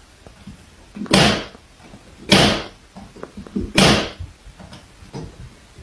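Three loud bangs, a little over a second apart, each dying away quickly, with faint knocks in between.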